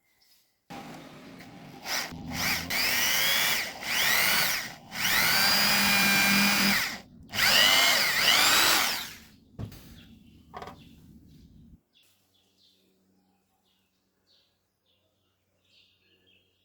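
Handheld power drill running in four or five short bursts, each speeding up and slowing down, then stopping about three-quarters of the way through.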